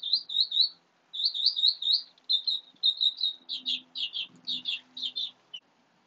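A small songbird singing a fast run of high chirps, about six a second, with a brief break about a second in, then slower separate notes before it stops shortly before the end.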